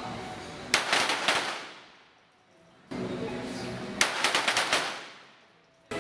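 Volleys of .22 sport-pistol shots from several shooters firing almost together, a quick ragged cluster of cracks about a second in and another about three seconds later, each dying away. Background music with steady tones comes up between the volleys.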